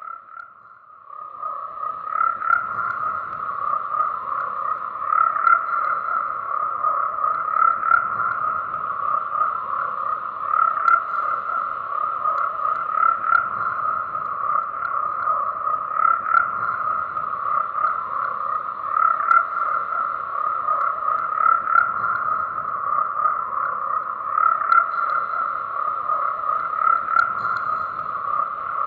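Dense chorus of many frogs calling continuously, the croaks overlapping into a steady din. It starts quietly and swells up within the first two seconds.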